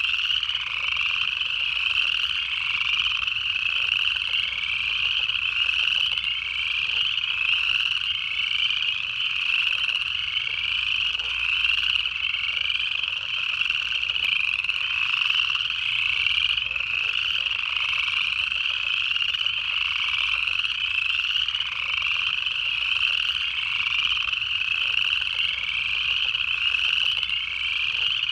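Dense chorus of upland chorus frogs: many males giving short rising trills, overlapping one another in a steady, unbroken run.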